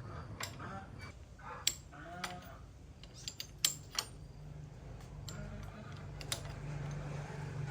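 Scattered sharp clicks and clinks, like metal tools and parts being handled, over a steady low hum, with a few short pitched calls in the first half.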